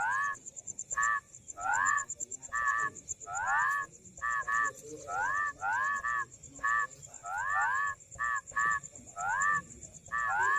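Rice-field frogs calling: repeated upward-sweeping notes alternate with short double notes, a few calls every second. A steady high trill runs underneath.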